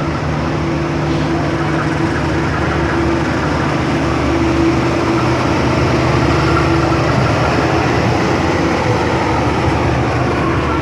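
Train running at a railway station: a loud, steady engine rumble with a constant hum, swelling slightly about halfway through.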